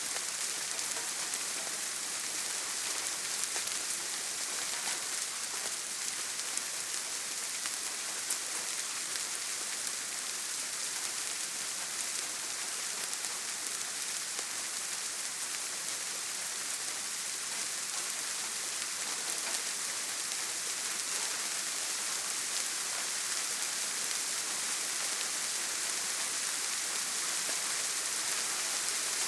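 Steady heavy rain on a tin roof, an even hiss with scattered drop ticks.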